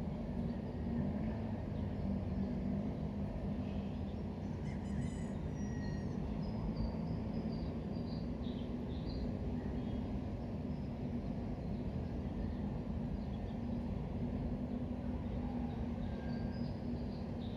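Steady low background rumble of outdoor ambience, with faint high bird chirps now and then.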